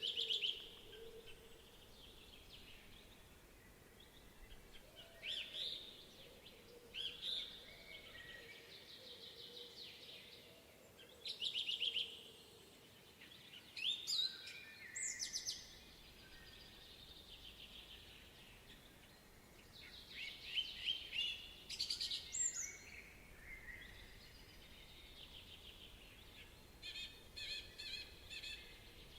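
Songbirds singing: short phrases of rapid, high chirping notes come every few seconds, with gaps of steady background noise between them.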